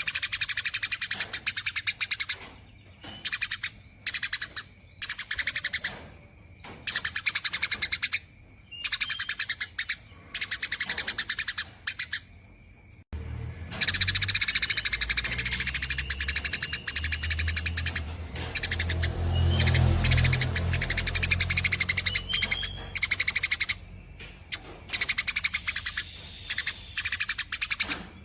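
Eurasian tree sparrows giving long, rapid chattering trills: bouts of about a second, repeated with short gaps, then one unbroken stretch of chatter lasting about ten seconds around the middle, then short bouts again.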